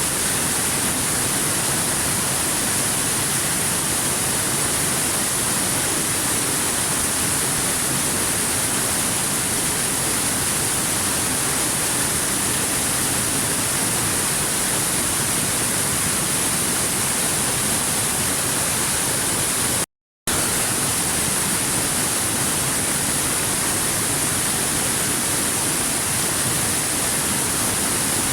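Waterfall rushing: a steady, even roar of falling water with a bright hiss. It cuts out to silence for a split second about two-thirds of the way through, then resumes unchanged.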